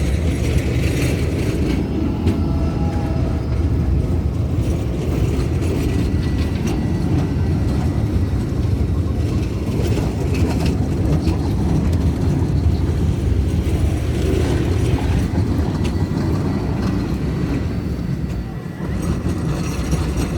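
Tram running on rails: a steady low rumble with a faint thin whine and scattered clicks.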